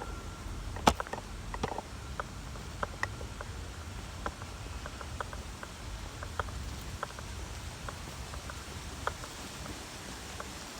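Footsteps on a trail, heard as scattered light clicks about once or twice a second, over a low steady rumble.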